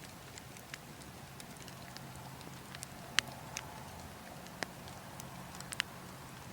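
Burning logs crackling with scattered sharp pops, the loudest a few in the second half, over a steady background of wind.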